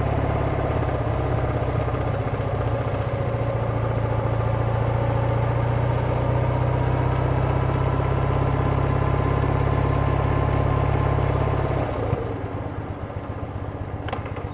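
BMW R100RS's air-cooled OHV boxer twin running steadily while the motorcycle is ridden, heard from on board. About twelve seconds in the deep engine note falls away and gets quieter as the bike slows.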